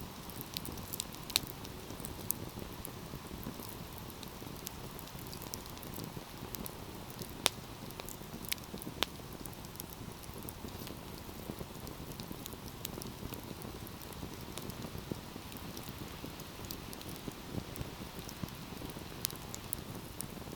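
Wood fire burning with a steady low rush of flames and irregular crackles and sharp pops, the loudest pops about a second in and around seven and nine seconds in.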